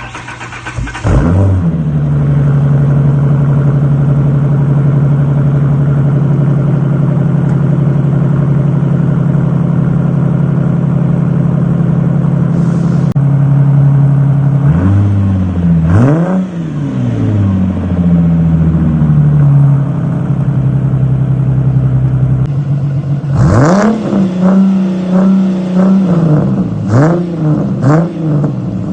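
A Ford Mustang's 4.0 V6 exhaust: the engine catches about a second in and idles steadily with a deep note. From about halfway it is blipped several times, with quick rises and falls in pitch, and there are more rapid revs near the end.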